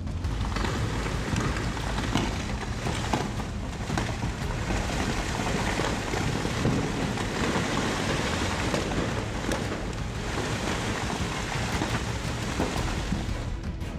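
Steady rushing and splashing of a tidal bore wave surging and crashing over a river dam.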